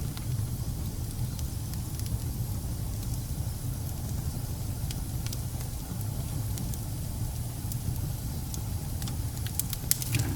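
Wood fire burning in a fireplace: a steady low rumble of flames with scattered sharp crackles and pops, and a quick cluster of pops near the end.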